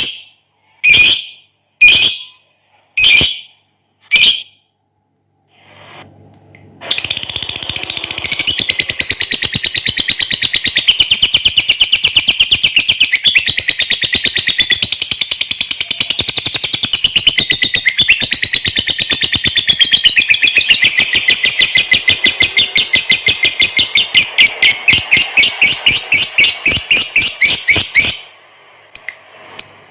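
Lovebird singing: five sharp calls about a second apart, then a long, very fast chattering trill (the 'ngekek panjang') lasting about twenty seconds that slows into separate notes near the end.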